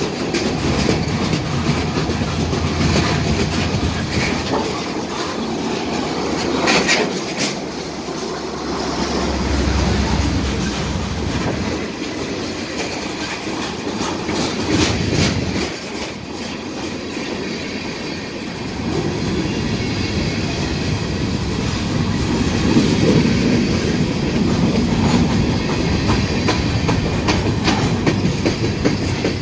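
Freight train of boxcars and covered hopper cars rolling past close by: a steady rumble of steel wheels on rail, with clicks and clacks as the wheels cross rail joints.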